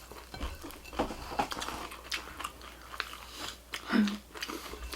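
Close-up chewing and crunching of food in a mouth, with many small irregular crunches. There is a short hum about four seconds in.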